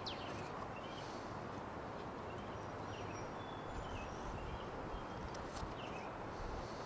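Steady quiet background hiss with faint, short bird chirps scattered through it.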